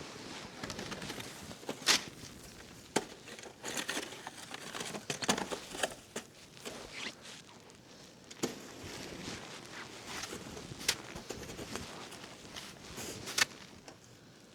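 Footsteps crunching through snow, with the rustle of snow clothing: irregular sharp crunches over a soft shuffling noise.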